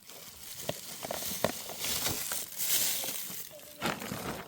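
Rustling and crunching with scattered sharp clicks and knocks, louder and hissier for a second or so in the middle.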